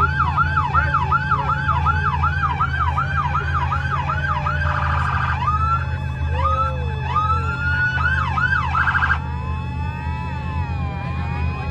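Electronic emergency-vehicle sirens over a steady low engine rumble. The siren runs a fast yelp of about three sweeps a second, breaks into a brief rapid warble twice, then slows into long rising and falling wails, with more than one siren overlapping near the end.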